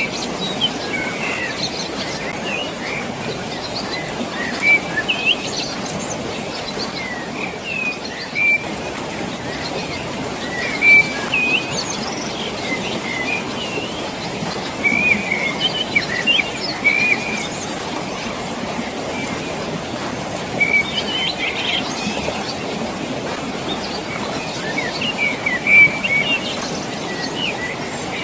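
Many small birds chirping and whistling in short calls, on and off, over a steady rush of flowing water.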